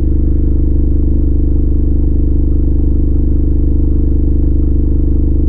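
8-inch CT Sounds Meso car subwoofer playing a loud, steady low bass tone that holds without change, with a dense stack of overtones above it.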